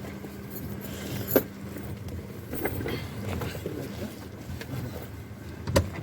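Car running, a steady low hum, with two sharp clicks or knocks: a small one about a second and a half in and a louder one near the end.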